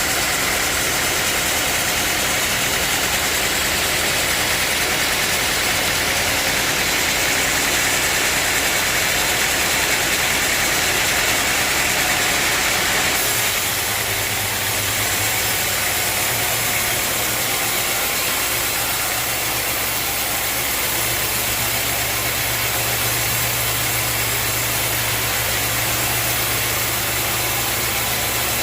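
Sawmill machinery with an engine running steadily. About halfway through the sound shifts: the high hiss eases and a steady low hum comes up.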